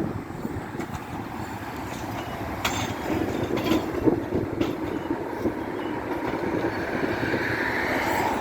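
Train running past on the track, a steady rumble with the wheels clicking over rail joints a few times, and a rising whine near the end.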